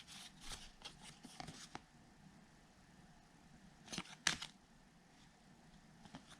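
Baseball trading cards being handled and flipped through by hand: soft slides and light taps in quick succession at first, then two sharper clicks about four seconds in.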